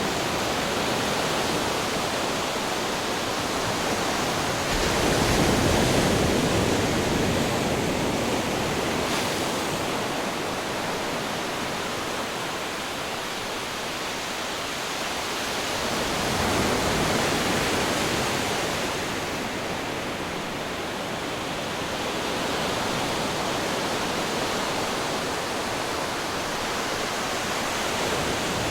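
Ocean waves breaking on rocks: a continuous rushing wash of surf that swells into louder surges about five seconds in and again around sixteen seconds, then eases back.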